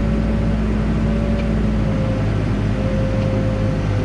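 Backhoe's diesel engine running steadily, heard from the operator's cab, with a steady high whine over the engine note.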